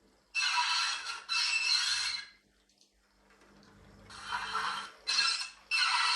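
Recorded goods-wagon shunting sounds played through a Train Tech SFX70 sound capsule's small loudspeaker: loose-coupled wagons giving a series of metallic clanking and scraping bursts, two close together near the start and three more in the second half, the last two sharp and quick.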